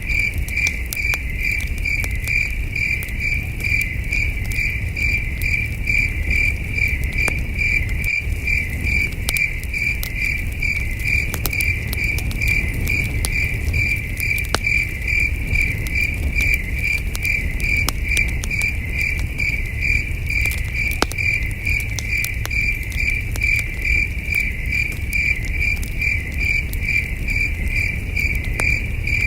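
Crickets chirping in a steady, even rhythm, with the scattered sharp crackles and low rumble of a campfire burning underneath.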